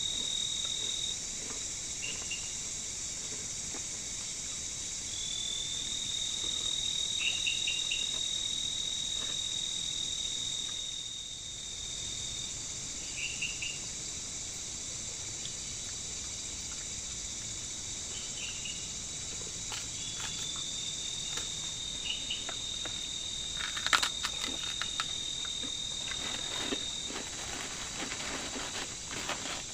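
Night insect chorus of crickets and katydids: a steady high hiss, a shrill trill that runs for several seconds and stops, and short chirps every few seconds. A few sharp clicks come about two-thirds of the way through.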